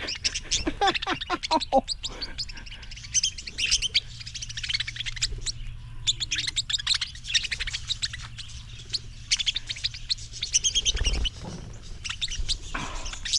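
A flock of small birds chirping and chattering, many rapid high-pitched calls overlapping in bursts every second or two.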